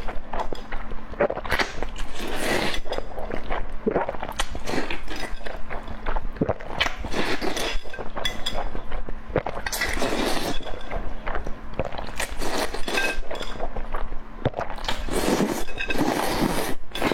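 Close-miked eating sounds: irregular chewing, crunching and wet clicks of food in the mouth, with several longer slurps or sucking bursts, the longest near the end.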